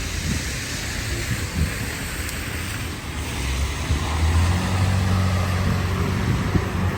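Street traffic noise with wind on the microphone; about halfway through, a vehicle's engine grows louder as a low steady hum and keeps running.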